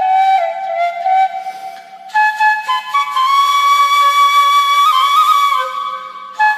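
Background music: a flute melody of long held notes that slide between pitches, with a wavering ornament on a held note about five seconds in.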